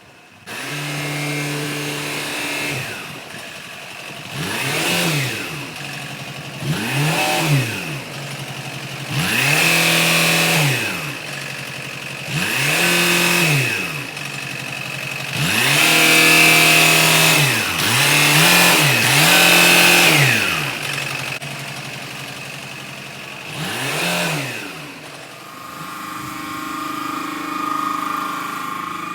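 A truck engine revved again and again, about nine times, each rev rising and falling in pitch, with some held longer than others. Near the end it settles to a steady idle.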